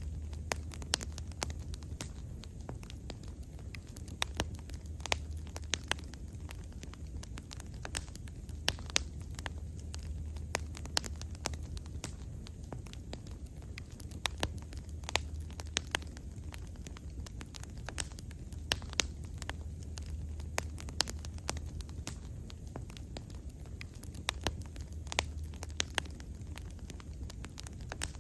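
Bonfire burning, with irregular sharp crackles and pops from the wood, several a second, over a low steady rumble of the flames.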